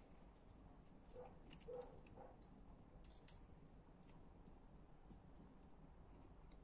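Near silence with a few faint small clicks and taps, clustered about a second in and one sharper click just past the middle: light metal handling as a piston ring is set in the cylinder bore and its end gap checked with a feeler gauge.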